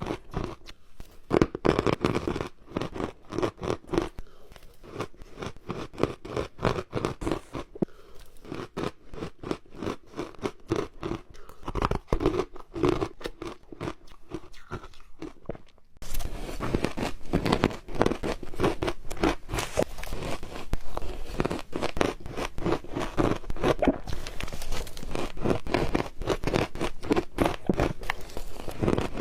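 Ice cubes bitten and crunched between the teeth: a dense run of sharp cracks and crunches, which gets louder and fuller suddenly about halfway through.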